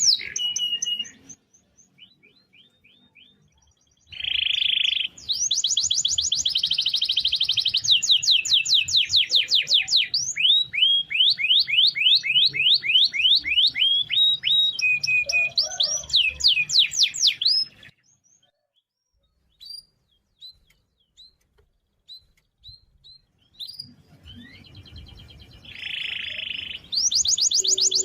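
Domestic canary singing long trilled rolls of rapid repeated notes, with buzzy phrases between them. The song stops for several seconds past the middle, leaving only scattered single chirps, then starts again near the end.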